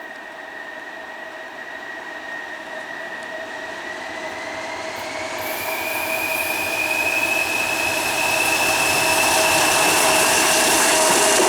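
A pair of TEM2 diesel shunting locomotives pulling away under power and drawing closer, growing steadily louder. A high steady whine runs over the rumble and rises in pitch about halfway through.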